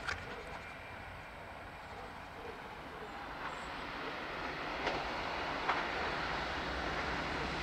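An approaching locomotive-hauled passenger train, its rumble and rail hiss growing steadily louder. A few sharp clicks of wheels over rail joints and switches come near the start and twice about five seconds in.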